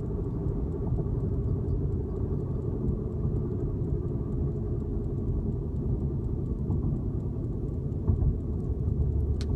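Road noise inside the cabin of a moving 2006 Lexus IS 350: a steady low rumble, carrying the rhythmic 'womp womp' from the left tyre that gets faster with speed. The noise persists after the wheel bearing hub was replaced.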